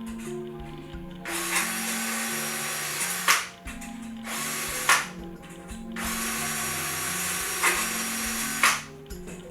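Handheld power drill running in three bursts of about two seconds each, likely a deburring bit on the wing's aluminium parts, with a sharp click as each burst stops. Background music plays underneath.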